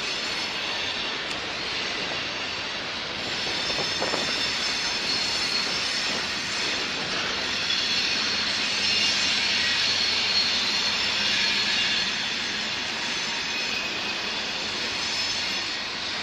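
Covered hopper cars rolling slowly past on the rails: a steady rumble and hiss of wheels on track, swelling in the middle, with faint high squealing tones.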